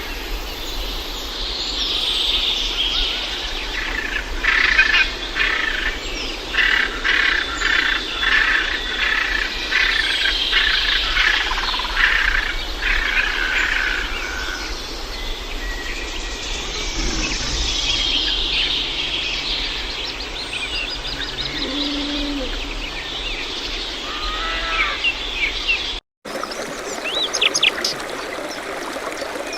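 Birds singing and chirping, with many overlapping calls and trills. The sound cuts out briefly near the end, and then quick, evenly repeated chirps follow.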